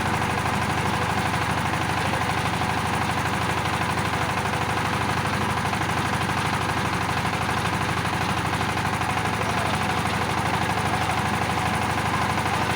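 Kirloskar power tiller's single-cylinder, water-cooled diesel engine running steadily with a rapid, even firing beat.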